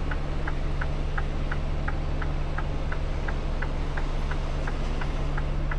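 Semi truck's diesel engine idling with a steady low hum, under an even ticking of about three ticks a second.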